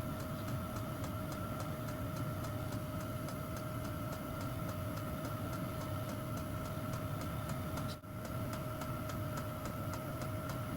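A workshop machine running steadily, with a steady hum and a faint, even ticking of about four to five ticks a second.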